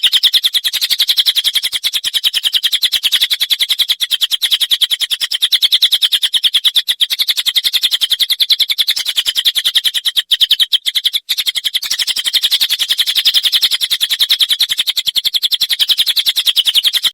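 Cililin bird song in 'tembakan' and 'rambatan' style: a loud, very fast, unbroken string of high notes, like a long rattling trill, used as a tutor recording (masteran) for songbirds. It breaks off briefly a few times about two-thirds of the way through, then carries on.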